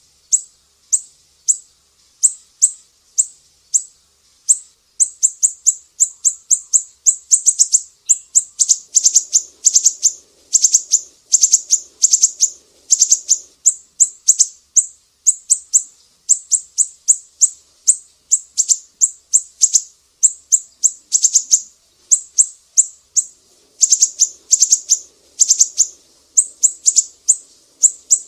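Sumatran siri-siri bird singing: rapid trains of short, sharp, high notes, each sweeping downward, several a second, in bursts separated by brief pauses.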